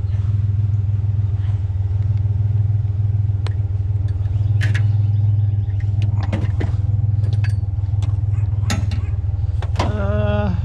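Pickup truck engine running with a steady low drone, with a few scattered clicks and knocks on top.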